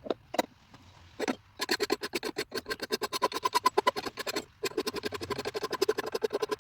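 A coarse hand file rasping across the steel edge of an axe clamped in a vise, in a fast, even chatter that starts about a second and a half in after a few light clicks and breaks off briefly partway through.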